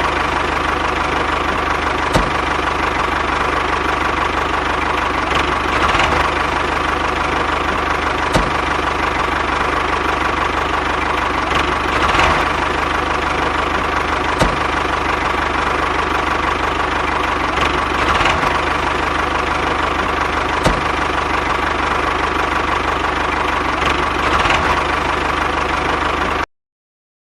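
Small electric motor of a DIY model tractor running steadily with a constant whine, a light click every few seconds; it cuts off abruptly near the end.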